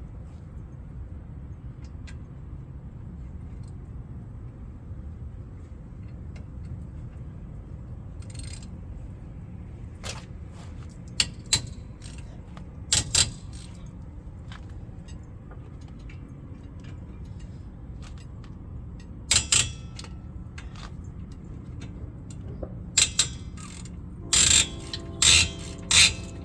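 Metal tools and brake parts clinking and clanking during a rear brake job: scattered light clicks, then sharper clanks in small clusters, the last few near the end ringing briefly. A steady low hum underneath.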